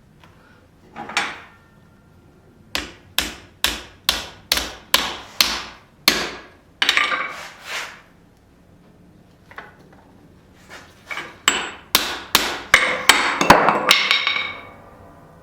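Hand hammer striking a forged tong jaw on the anvil to fit it to the bar stock it will hold. The blows come in two runs, the first about two a second, the second quicker and louder with ringing after the last blows.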